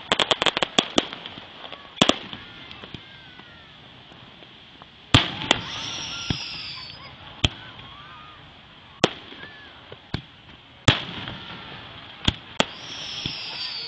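Aerial fireworks exploding. A rapid string of crackling bangs comes in the first second, then single loud booms every second or two, with two high whistles falling in pitch.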